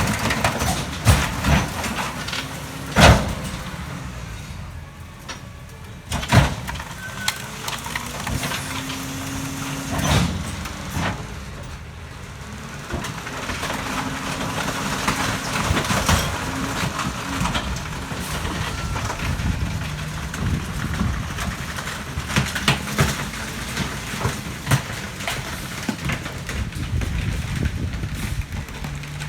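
McNeilus rear-loader garbage truck running, with scattered loud bangs and cracks as bulky waste is loaded and crushed in the hopper; the loudest bang comes about three seconds in.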